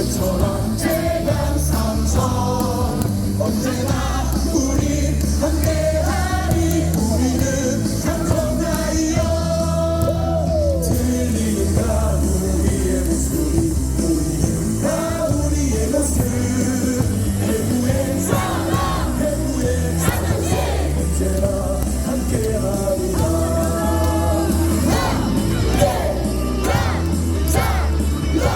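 Amplified stadium cheering-song music with singing over a steady heavy bass beat, the crowd singing and yelling along.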